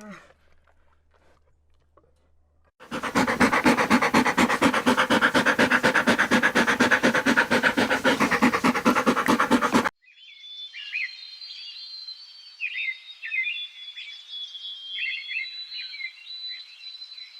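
An animal panting fast and loud with an even rhythm for about seven seconds, cutting off abruptly, followed by high, repeated chirping calls.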